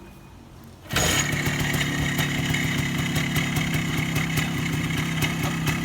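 Minsk 125 motorcycle's single-cylinder two-stroke engine comes in abruptly about a second in and then runs steadily at idle, with a fast even popping beat. The carburettor has just been repaired for a sticking throttle slide and leaking.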